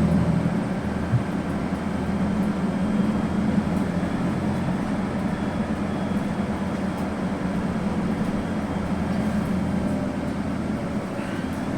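Scania N280UB city bus's CNG engine running, heard from inside the passenger cabin as a steady low drone with vehicle noise over it.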